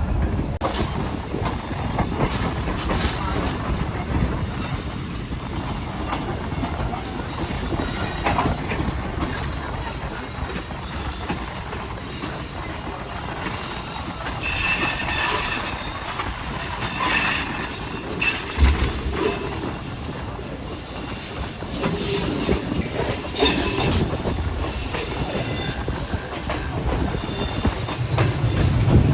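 Hazara Express passenger train running along the track, with a steady rumble of wheels on rail and high-pitched wheel squeal that comes and goes, strongest in the second half.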